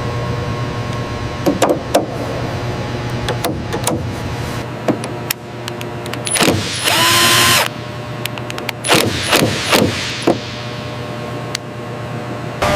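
Workshop sounds: scattered sharp metal knocks and clicks over a steady mechanical hum. About seven seconds in, a loud hiss lasts under a second, with a tone rising through it.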